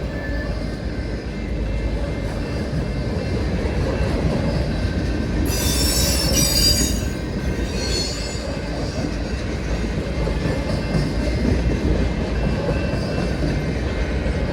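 Empty freight cars of a CSX freight train rolling past with a steady rumble and wheel noise. About five and a half seconds in, a wheel squeals high for nearly two seconds, and a shorter squeal follows a moment later.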